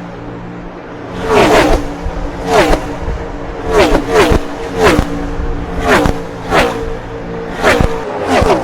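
NASCAR Cup cars' V8 engines passing one after another at racing speed. Each pass is a loud blast whose pitch drops sharply as the car goes by, about nine in all, over a steady lower hum.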